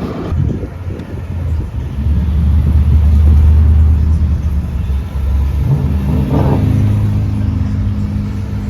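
Car engine driving past at low speed with a deep exhaust rumble that builds to its loudest a few seconds in. Then a steadier engine drone follows, with a short rev partway through.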